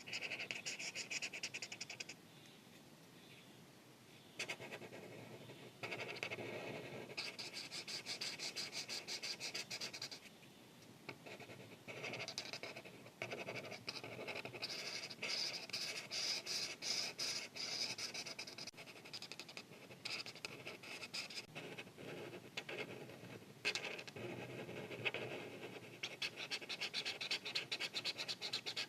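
Art marker tip scratching across paper in quick back-and-forth coloring strokes, coming in several spells of a few seconds each with brief pauses between them.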